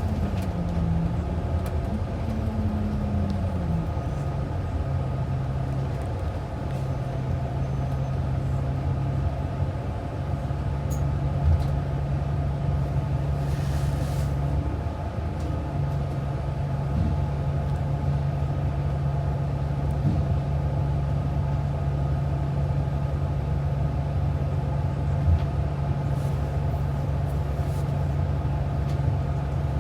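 Transit bus engine running with steady road noise. Over the first few seconds the engine note steps down in pitch, then holds steady, with a brief hiss about halfway through.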